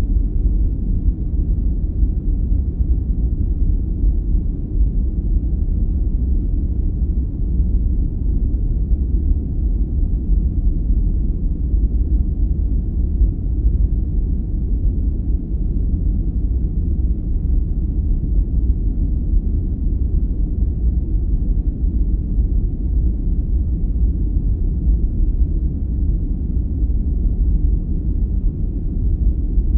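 Continuous sleep noise of the deep, brown-noise kind: a steady, even rumbling hiss, heavy in the lows with no treble, unchanging throughout.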